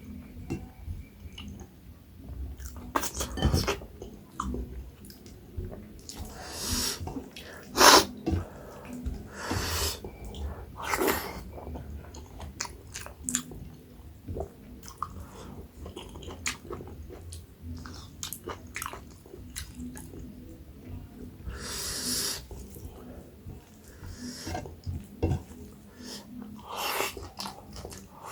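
Close-miked chewing and wet mouth sounds of a person eating chicken curry and maize dhido: steady smacks and clicks, with a few louder breathy swishes and one sharp click about eight seconds in.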